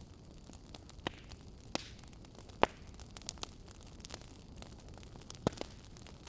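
Wood fire crackling in an open fireplace: scattered sharp pops and snaps over a low steady hiss. The loudest pop comes a little before the middle, with another strong one near the end.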